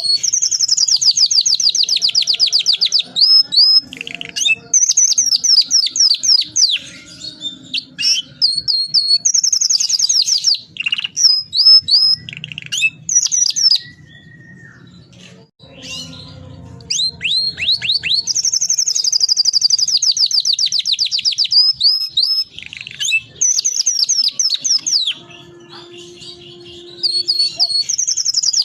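Domestic canary singing, in long fast rolling trills of repeated high notes mixed with quick whistled sweeps. The song breaks off for a couple of seconds about halfway through, then resumes.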